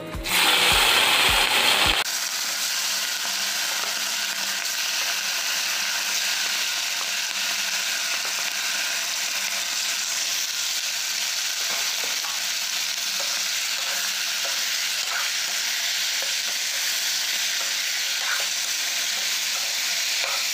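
Marinated chicken pieces going into hot oil in a metal kadai and frying with a steady sizzle, louder for the first couple of seconds. Later a metal spatula scrapes and clicks against the pan as the chicken is stirred.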